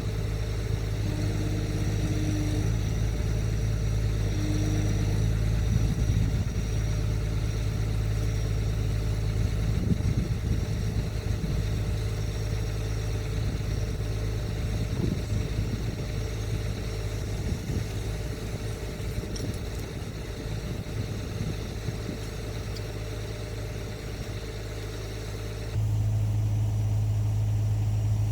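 Excavator's diesel engine running steadily at a low, even hum, with some uneven rumbling partway through. Near the end the sound changes abruptly and the engine hum becomes louder.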